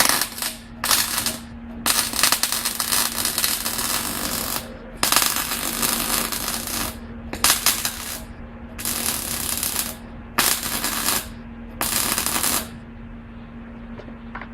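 A rattling power tool run in eight bursts of about half a second to two and a half seconds each, over a steady low hum.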